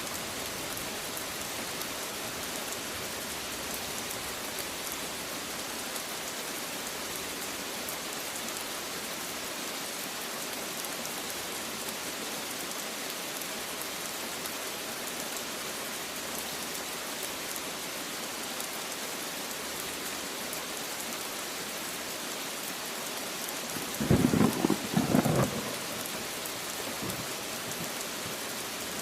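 Steady heavy rain falling on surfaces, an even hiss, with a short rumble of thunder in two surges near the end.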